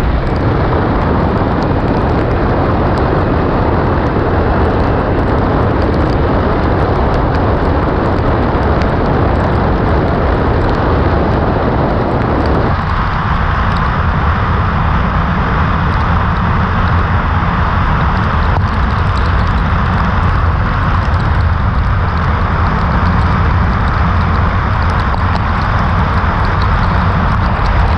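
Kawasaki Ninja 400 motorcycle on the move: a steady rush of wind and road noise over the microphone. About halfway through, the middle of the rush suddenly drops away, leaving a thinner low rumble and hiss.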